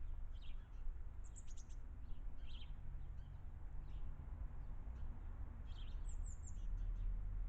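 Garden birds chirping in short, high clusters of notes, with a few brief pauses between them, over a steady low rumble of background noise.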